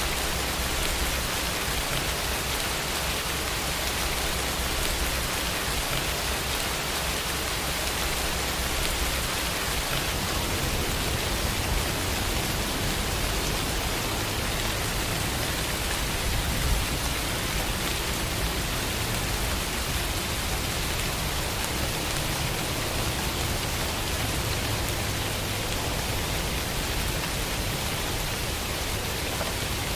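Steady, even rainfall, a constant hiss of rain on surfaces with no distinct drops or thunder standing out.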